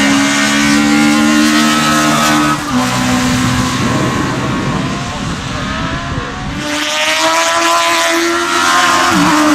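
Race car engine run hard at high revs on a hillclimb, the note held steady and then cut off about two and a half seconds in. A rougher stretch follows, then an engine note comes in loud again from about seven seconds, with a short dip in revs near the end.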